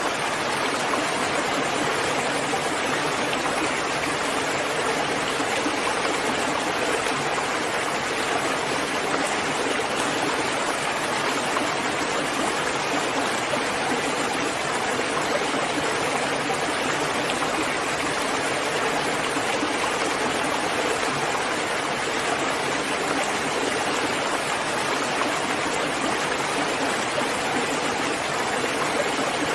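Steady rain falling, an even, unbroken hiss of water with no thunder and no single drops or drips standing out.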